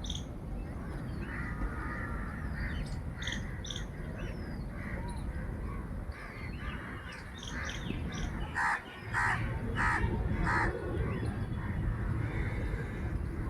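Birds calling: a run of about four loud calls, a little over half a second apart, partway through, among scattered higher chirps, over a steady low rumble.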